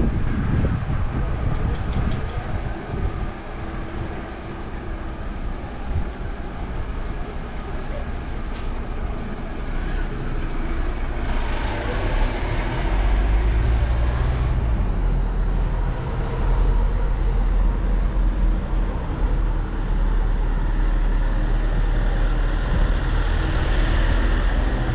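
Street ambience with motor traffic: a vehicle running close by, with a heavy low rumble setting in about halfway through and holding steady, and voices of passers-by.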